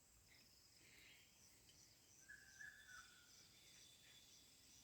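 Near silence: faint outdoor background with a high insect chirp repeating about twice a second, and a brief faint bird-like call near the middle.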